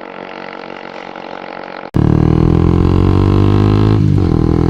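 Honda CBR250R's single-cylinder engine running on the road. About two seconds in it cuts abruptly to a much louder engine note that slowly falls in pitch, with a brief hitch near the end.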